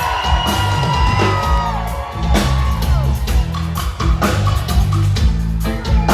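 Live reggae band playing: a heavy bass line under regular drum hits, with guitar and melodic lines gliding above.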